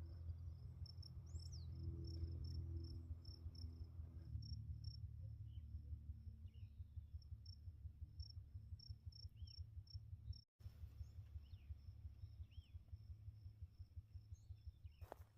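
Insects chirping outdoors in a steady high pulsing run, about two to three chirps a second, with a few short bird chirps. Faint low background music with a beat runs underneath and cuts out briefly about ten seconds in.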